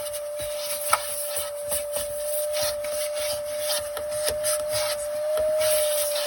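Vacuum cleaner running with a steady whine while its nozzle scrapes and knocks along the floor of an SUV's third row.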